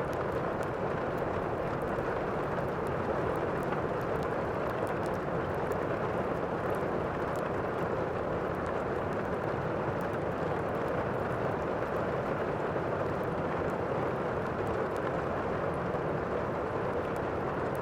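Steady rain falling in a thunderstorm ambience track, with scattered faint crackles from a log fire.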